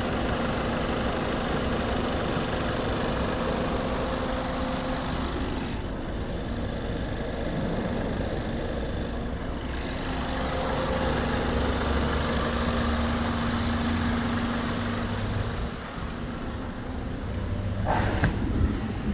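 2014 VW Golf 1.4 TSI four-cylinder petrol engine running steadily at idle during an engine test, with a brief louder rise near the end.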